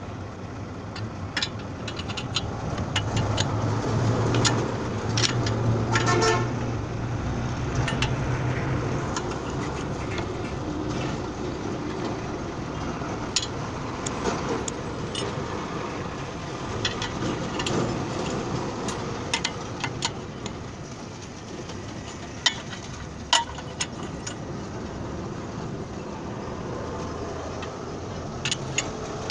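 Road traffic with a vehicle horn tooting about six seconds in, over a steady engine drone, with scattered sharp metallic clicks and knocks throughout.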